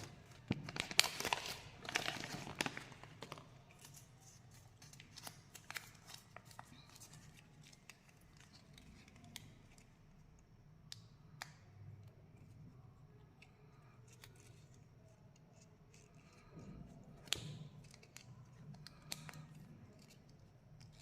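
Plastic candy wrapper being handled and torn open: dense crinkling and tearing in the first few seconds, then scattered small crackles and clicks, with another short flurry of crinkling past the middle.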